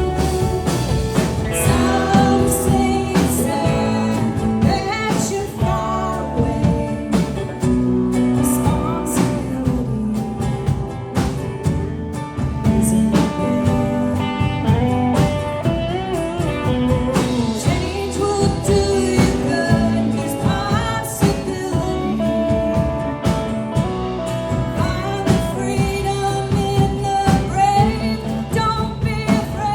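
A band playing a bluesy country song: a singer over guitar accompaniment.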